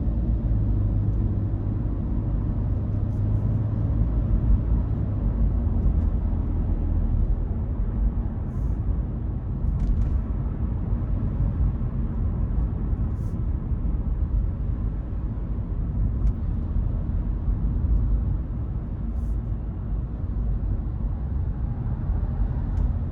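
Steady low road and engine rumble heard inside the cabin of a Hyundai Casper small car while it is being driven, with a few faint ticks.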